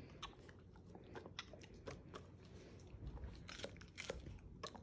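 A dog chewing a piece of pickle, with faint, irregular crunches and mouth clicks.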